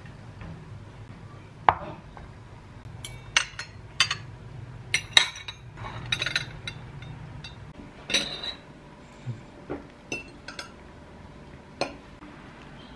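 Cutlery and dishes clinking and knocking: about a dozen separate sharp clinks, some ringing briefly, spread irregularly after the first couple of seconds.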